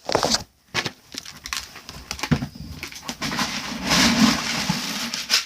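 Dry cat food being handled and poured out: a few knocks and clicks, then a dense rattle from about two seconds in, loudest near the end.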